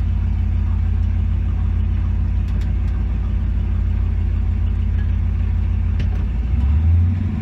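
Hot-rod gasser's engine running low and steady while cruising slowly, heard from inside the car, swelling briefly near the end as more throttle is given.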